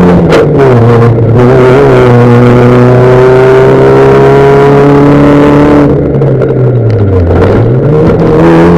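Fiat Bravo V1600-class rallycross car's engine held at high revs. The revs drop about half a second in and climb slowly and steadily under load for several seconds. Near the end they dip sharply and rise back up to a high pitch.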